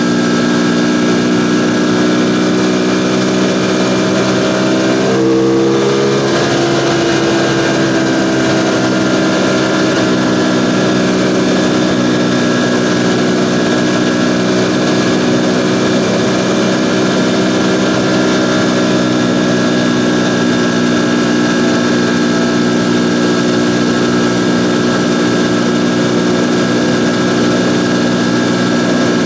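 Ducati Panigale V4's V4 engine running at a steady, high engine speed under way, with a noise of rushing air around it. About five seconds in the engine note briefly shifts in pitch, then holds steady again.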